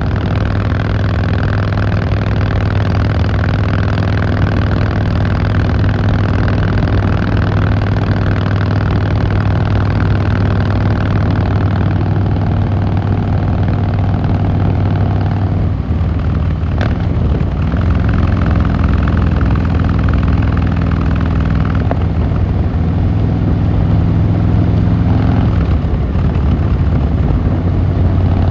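Harley-Davidson Fat Boy Lo's V-twin engine and exhaust running at a steady pitch, with a change in engine speed about halfway through and again near the end.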